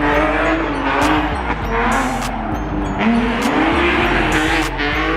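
A car sliding and spinning, its engine revving up and down in pitch while the tyres squeal.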